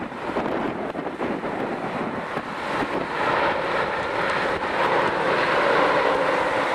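Jet airliner engines growing louder from about three seconds in and then holding steady, under wind buffeting the microphone.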